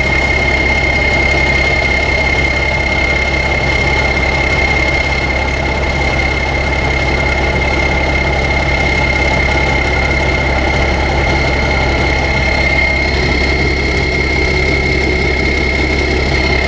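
Air-cooled diesel engine of a Deutz-Allis 9190 tractor running at a steady speed: a constant engine drone with a high, unchanging whine over it.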